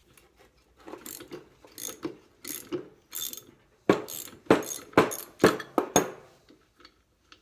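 Socket ratchet wrench clicking through a series of short back-and-forth strokes, with sharper, louder clicks in the second half.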